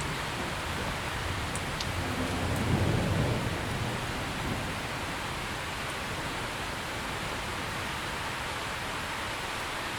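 Steady rain hissing, with a low rumble of thunder swelling and fading a couple of seconds in.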